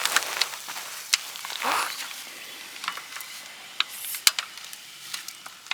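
Food sizzling faintly in a pan on a camp stove while a utensil clicks and knocks against the pan, with one longer scrape about a second and a half in.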